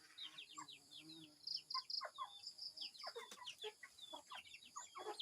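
Chickens calling: many short high chirps overlapping, with a few lower clucks, heard faintly.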